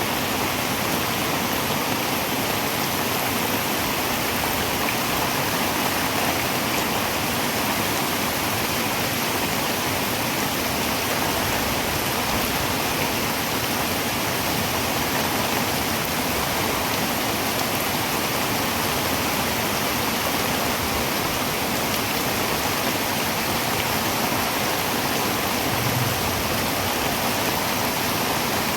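Heavy rain falling on a tin roof, a dense, steady hiss with no letup.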